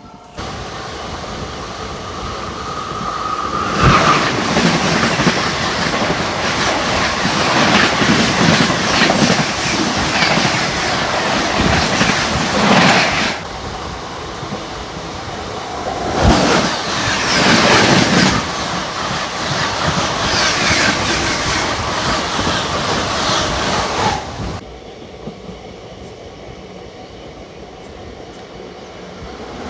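Passenger train running through at speed, its wheels rumbling and clacking over the rail joints, with sharp knocks at intervals. The noise drops off suddenly near the end to a quieter rumble.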